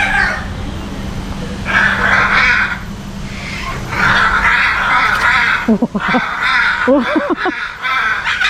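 Parrots giving harsh, raspy screeches: two long ones about two and four seconds in, then shorter wavering calls in the second half.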